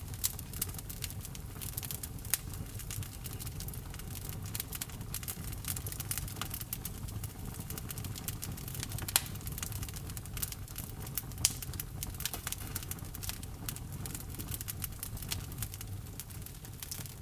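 Wood fire burning in a fireplace: irregular crackling and popping of the logs over a low, steady rumble of the flames, with a few louder pops.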